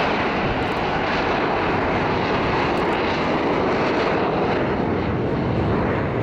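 Avro Vulcan's four Rolls-Royce Olympus turbojets, a loud, steady rush of jet noise from the delta-wing bomber in flight.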